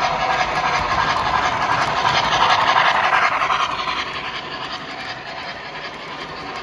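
Model train running along the track, its wheels rumbling and clicking over the rail joints. It grows louder about halfway through, then fades as it moves away.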